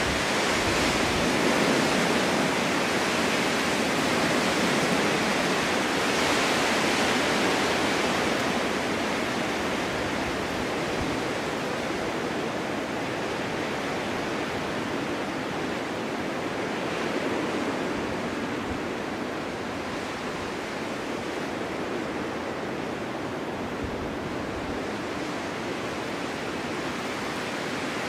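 Snowstorm wind blowing in a steady rush that swells and eases in slow gusts, strongest over the first several seconds and with another surge a little past the middle.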